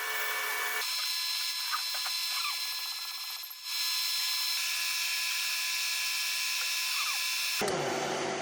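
Jig boring machine spindle running as a boring cutter cuts the spark-plug well in a cylinder head: a steady high whine made of several held tones, dipping briefly about three and a half seconds in. A lower hum joins near the end.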